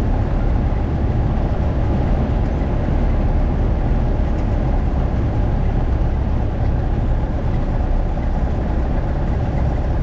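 Cessna 172's four-cylinder piston engine and propeller running steadily, a low, even drone with no change in power.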